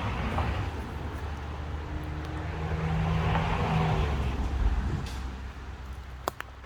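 A motor vehicle passing on a road: a rumble of engine and tyres that builds to a peak about three to four seconds in and then fades.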